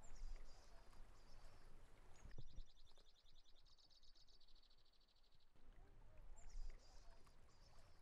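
Faint small-bird calls over a low outdoor rumble: high thin chirps near the start and end, and a rapid trill lasting about three seconds from a couple of seconds in.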